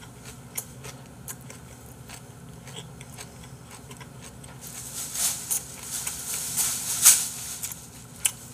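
Close-miked eating: faint clicks of chewing with a full mouth, becoming louder and noisier after about five seconds, with one sharp click near the end.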